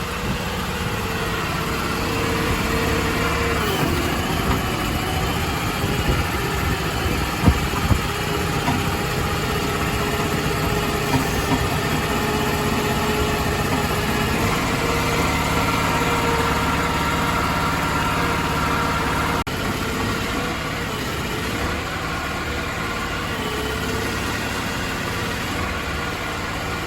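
Crawfish boat's engine running steadily while the boat is under way.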